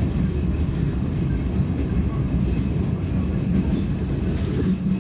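DR1A diesel multiple unit running along the line, a steady low rumble of engine and wheels on the track.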